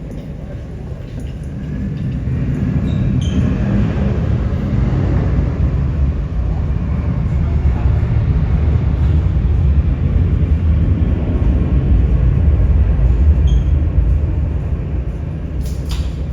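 Jet airliner engines, a deep steady rumble that builds about two seconds in, holds loud, and eases slightly near the end.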